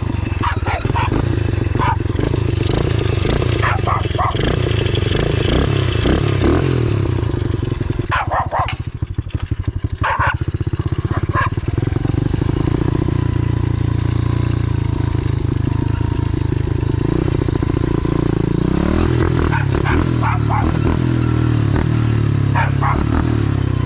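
125cc pit bike's single-cylinder engine running under way, its revs rising and falling and dropping off briefly about a third of the way through. A dog barks now and then over the engine.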